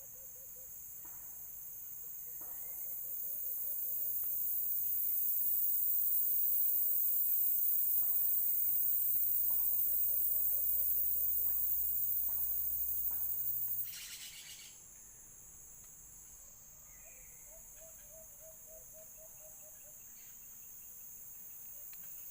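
A high-pitched insect drone swells, holds steady, then cuts off sharply about two-thirds of the way through. Faint short trilling bird calls repeat underneath.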